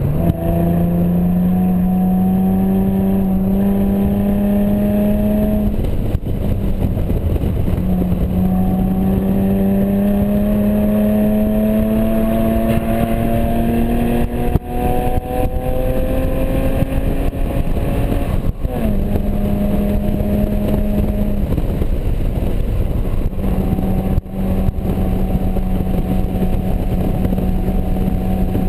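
Nissan 350Z's 3.5-litre V6 running hard on track, heard inside the open-top cabin. Its note climbs slowly through long pulls, drops away briefly twice and dips in pitch once, over a steady rushing noise.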